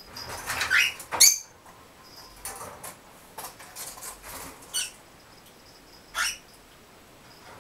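Pet birds and a kitten in a chase: a series of short scuffles, flutters and brief chirps, several separate noises a second or so apart.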